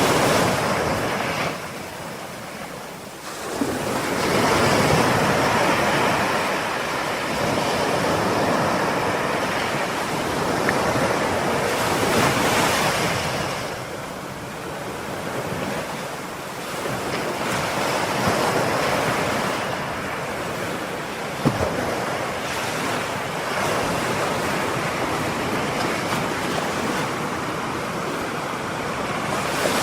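Ocean waves breaking and washing on a shore, the surf swelling and ebbing every few seconds with no pause between waves.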